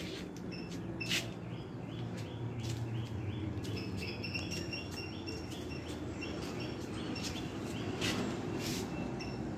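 Small birds chirping: a run of short, quickly repeated high notes over a steady low background noise, with a few sharp clicks, the loudest about a second in and near the end.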